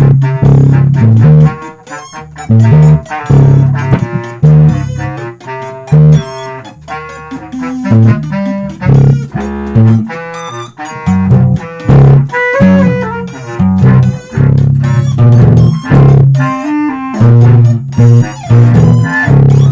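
Electric bass and guitar playing instrumental music: loud, short low bass notes that stop and start, with plucked guitar notes above.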